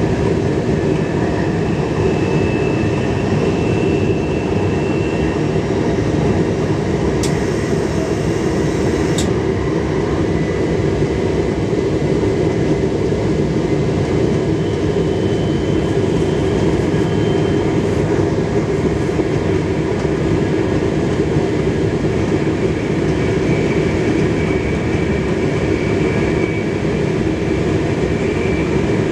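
Cab interior of an X31 Øresundståg electric multiple unit running at speed: a steady rumble of wheels on rail and running gear, with faint high whining tones that come and go. A brief high hiss cuts in about seven seconds in and lasts about two seconds.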